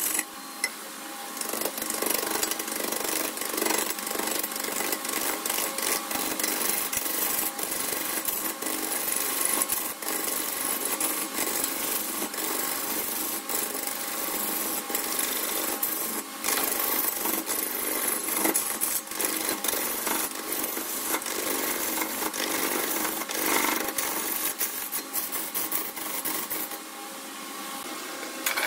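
Wood lathe turning a wooden blank while a turning tool cuts and scrapes it, a steady rasping with frequent small knocks, quieter for the last second or two.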